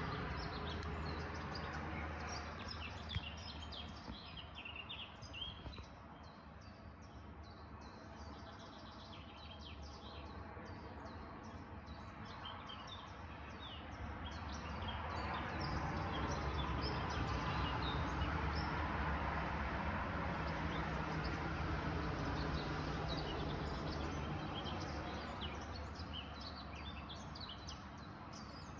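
Dawn chorus of many small birds chirping and calling at once, over a steady background rush that swells in the middle and eases off near the end.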